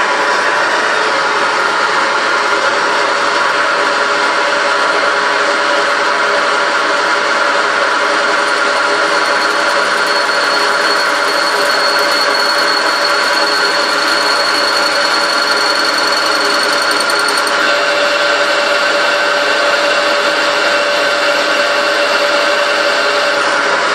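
Machine tool running steadily while machining long studs for a Cosworth engine, with a held whine. About two-thirds of the way through, the pitch of the whine shifts and a high tone drops out.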